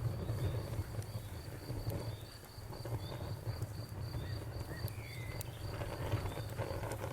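Crickets chirping in a steady, even rhythm several times a second over the low rumble of a wood fire, with a few faint crackling pops.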